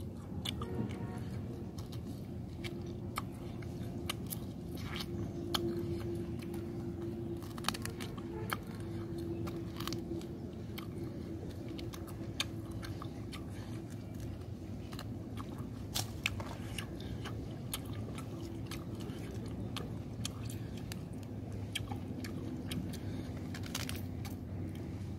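A person eating fried duck, chewing with many short crunchy bites scattered throughout.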